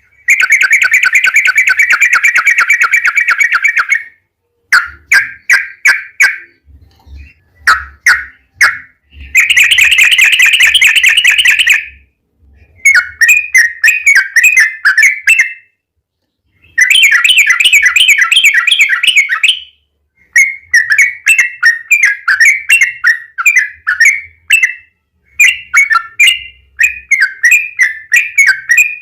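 Yellow-vented bulbul (trucukan) singing loudly in long, rapid 'ropel' runs: unbroken strings of quick notes lasting a few seconds, alternating with shorter choppy chattering phrases and brief pauses.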